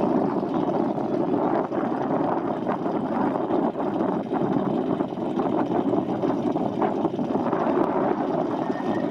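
Chevrolet Nova on the move: steady engine, tyre and wind noise heard from inside the car, with a faint steady tone running through it.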